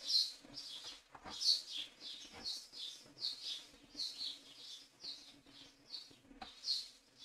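A bird chirping over and over, short high chirps about two a second, over a faint steady low hum.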